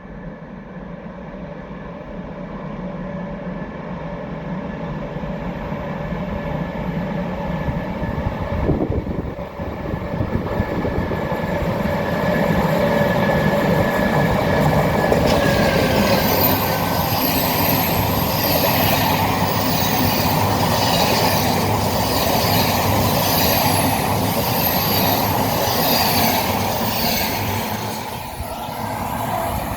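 ONCF E-1400 class electric locomotive and its passenger coaches approaching and passing. The sound grows louder over the first ten seconds or so, then the train passes with a steady hum and a regular clatter of wheels over the rail joints, about once a second.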